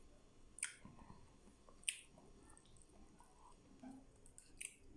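Quiet chewing of grilled barbecue with the mouth closed, near silence apart from three short wet mouth clicks, about half a second, two seconds and four and a half seconds in.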